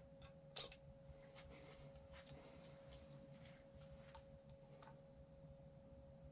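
Near silence: faint room tone with a steady hum and a scattering of light clicks and taps.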